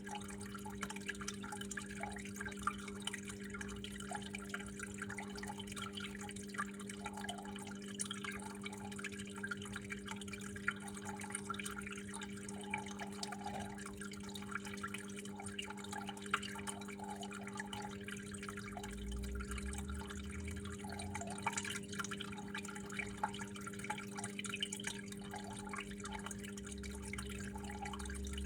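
Water flowing and dripping at home: many small irregular drips and trickles over a steady low hum.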